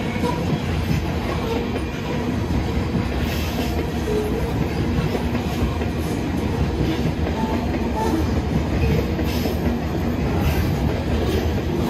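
A Canadian Pacific manifest freight train rolling past, its steel wheels rumbling steadily with a clickety-clack over the rail joints.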